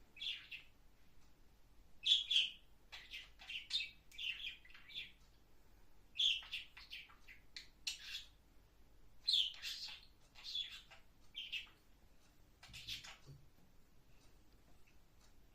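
Pet parrot chirping in short high bursts, about ten calls with pauses between them.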